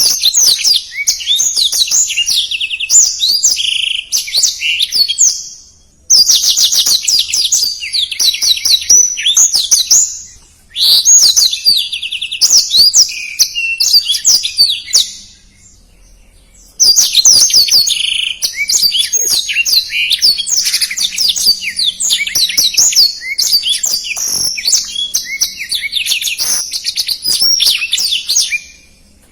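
Blackthroat (yellow-rumped seedeater) singing in full song: fast, densely packed high chirps and trills in bouts of several seconds, broken by brief pauses.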